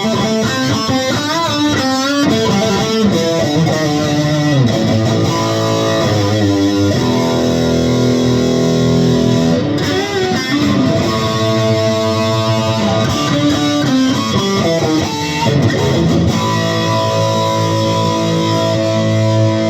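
Electric guitar played through a Marshall JCM2000 TSL100 valve amplifier head: single-note lines with string bends and vibrato, mixed with held chords, the last chord ringing on for the final few seconds.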